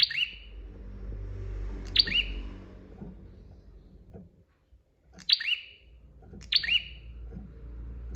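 Prinia (prenjak) giving short, sharp chirping calls, each a quick two-part note falling in pitch, repeated every one to three seconds over a low background hum.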